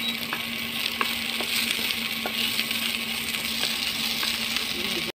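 Fresh green peas sizzling in hot oil in a nonstick pan while a wooden spatula stirs them, with a few light taps and scrapes of the spatula against the pan.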